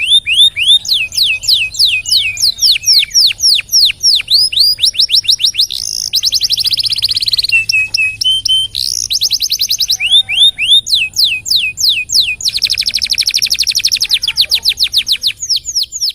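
Domestic canary singing a loud, continuous song. Series of repeated downward-sweeping whistled notes alternate with long, very fast rolling trills, one about six seconds in and another lasting about three seconds from about twelve seconds in.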